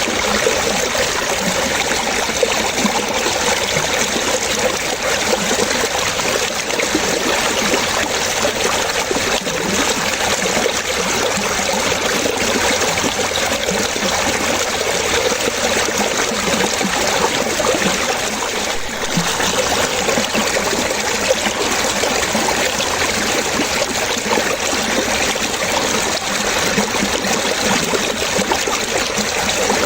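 Water running and splashing steadily over stones, a continuous trickle with many small plops, like a brook.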